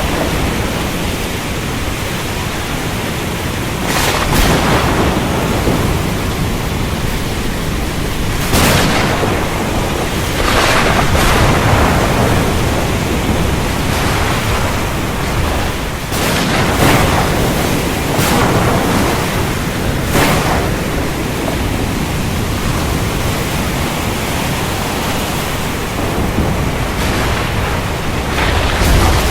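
Heavy rain pouring steadily, with a low rumble underneath and a sharp thunder crack every few seconds, some of them in close pairs.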